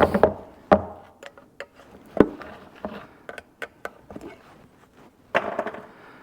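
Irregular clicks, knocks and light rattles of tools and containers being handled and set down on a work surface, a few sharper knocks among them.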